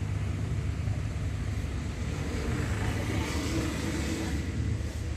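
Six-cylinder truck engine fitted in a modified Hindustan tractor, running steadily with an even low rumble.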